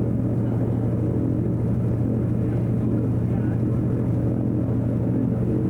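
Steady drone of a Douglas DC-3's twin piston radial engines and propellers running at an even power setting.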